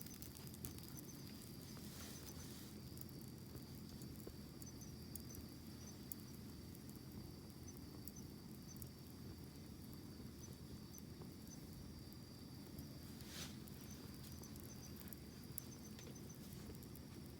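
Wood campfire burning quietly: a low steady rustle of flame with scattered faint crackles and pops, one a little louder about 13 seconds in. A faint steady high tone with small chirps sits above it.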